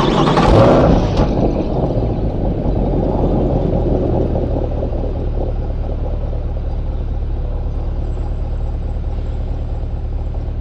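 2024 C8 Corvette's 6.2L LT2 V8 on its stock exhaust at a cold start in Tour mode: the engine flares up loudly just after catching, then settles within a couple of seconds into a steady idle.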